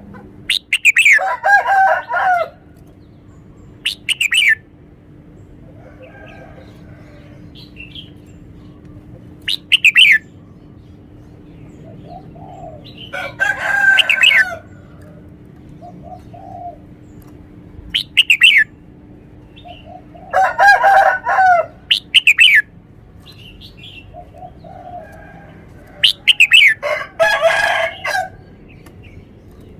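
Red-whiskered bulbul singing: short, loud phrases of quick notes, each opening with sharp falling whistles, repeated every few seconds, with fainter chirps between them.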